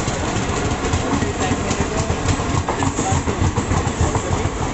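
Passenger train coaches rolling past close by, with a steady heavy rumble and irregular clattering of wheels over the rail joints.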